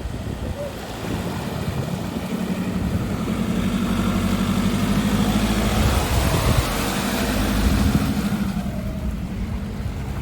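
Nissan Patrol Y61 engine working off-road, its note building from about a second in and easing off near the end.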